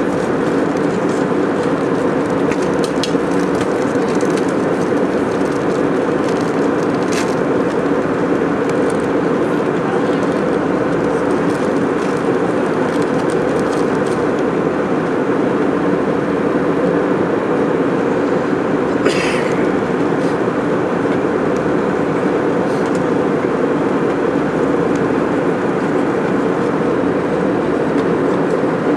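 Steady roar of an airliner in flight, heard inside the passenger cabin: engine and airflow noise, even and unchanging, with a few faint clicks.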